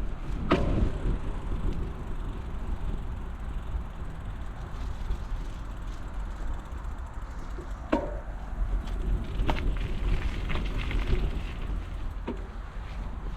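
Steady low rumble of a bicycle riding over a rough path, with wind buffeting the microphone and a few sharp knocks and rattles from the bike, about four in all.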